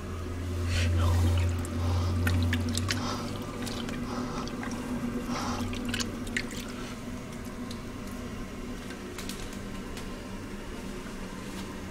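Caroma dual-flush toilet being flushed: water rushing and swirling in the bowl, with a low hum in the first couple of seconds, then a steadier gurgle and trickle with small splashes. The flush is trying to clear paper towel lodged in the bowl.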